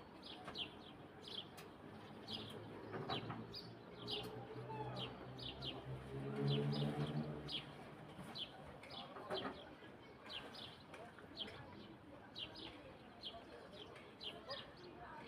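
Small birds chirping: many short, high chirps, each falling in pitch, repeated throughout. From about three seconds in, a low steady hum rises under them, loudest in the middle and fading out by about eight and a half seconds.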